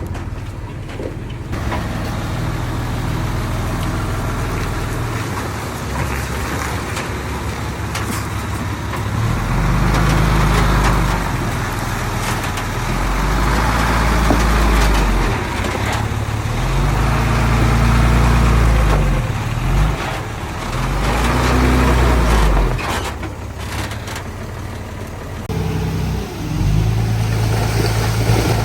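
Heavy diesel engine of earthmoving machinery running, labouring and easing off in repeated surges about every four seconds from roughly a third of the way in, as under pushing load.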